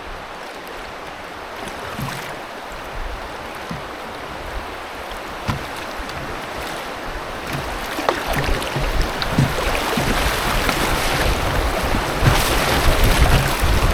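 River water rushing along a canoe, growing louder in the second half, with wind rumbling on the microphone and a few short knocks.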